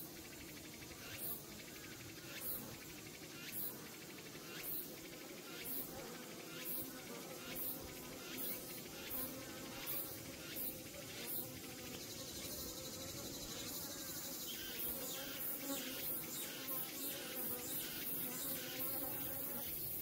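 Native Korean honeybees buzzing, a steady swarm hum. Over it, a high insect chirp pulses about once a second, coming faster near the end.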